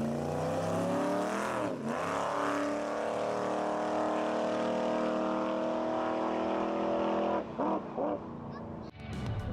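A hot rod's engine revving hard. The revs drop and climb back twice, then hold steady at high revs for about five seconds, and the throttle is let off with two short blips near the end.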